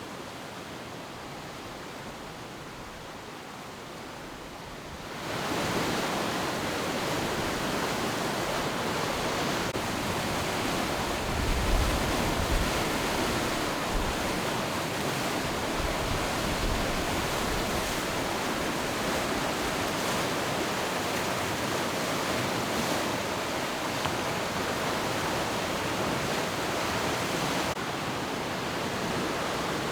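Matanuska River rapids at high flow: a steady, even rush of water. It jumps much louder about five seconds in, with a few brief low rumbles about twelve seconds in.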